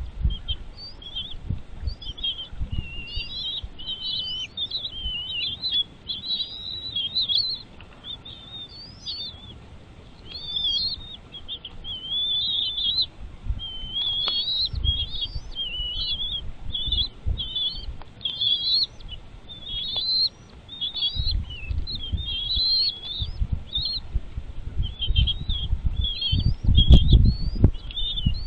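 Birds chirping continuously: dense, rapid, high-pitched short chirps and quick upward notes with hardly a pause. A low rumbling noise comes and goes underneath, heaviest near the end.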